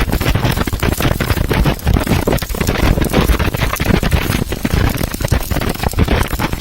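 Electric arc welding: a dense, irregular crackle that carries on steadily as the arc burns.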